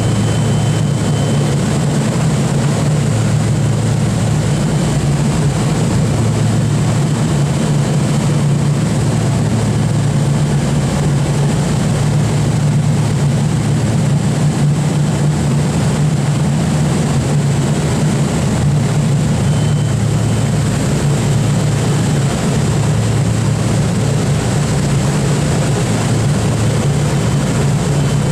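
Boeing B-29's four Wright R-3350 radial piston engines running steadily, a loud, unchanging low drone.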